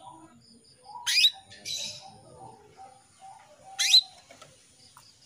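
Female canary calling: two loud, quick rising call notes about three seconds apart, with a short harsh chirp just after the first, over faint twittering of other birds. It is a hen in breeding condition calling to a male.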